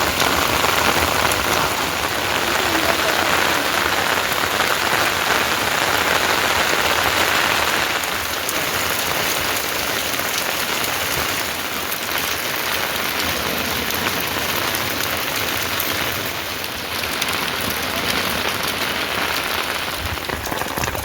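Steady rain falling: an even, unbroken hiss with many fine drop hits.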